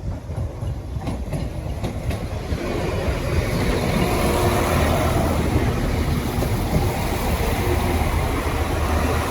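Northern Ireland Railways diesel multiple unit passing close by, its engine and wheels rumbling, growing louder over the first few seconds and then holding steady.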